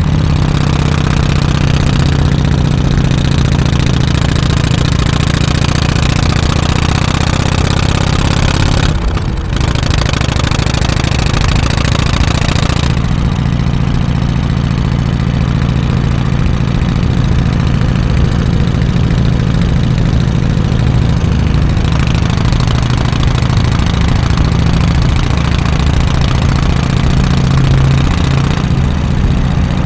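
Exhaust of a Harley-Davidson FXSTC Softail Custom's 1340 cc Evolution air-cooled V-twin running steadily. The engine sound dips briefly about nine seconds in.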